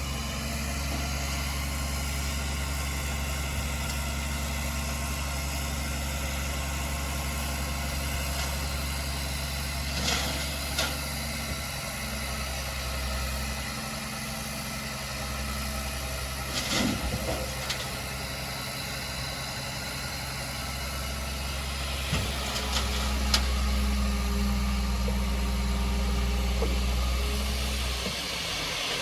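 Heavy diesel engine of earthmoving machinery running steadily at low revs, with a few short metallic clanks. The engine eases off through the middle and comes up again about two-thirds of the way through.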